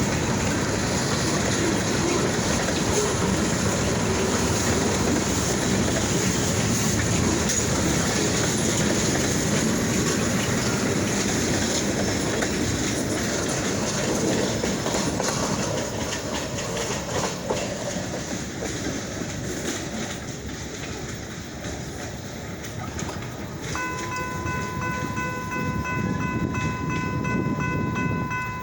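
Freight train rolling past, wheels clicking over the rail joints, the noise easing off after about fifteen seconds as it moves away. Near the end a single steady horn note sounds for about five seconds.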